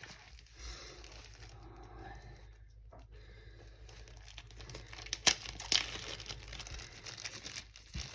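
The packaging of a diamond painting kit being handled and torn open: a crinkling rustle, with a couple of sharp rips a little after five seconds in.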